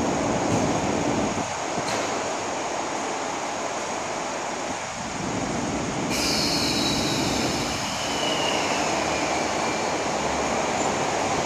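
MTR East Rail electric multiple-unit train at a station platform: a steady rumble and hiss of the train, with a high-pitched squeal that starts suddenly about six seconds in and slides down in pitch as the train begins to move.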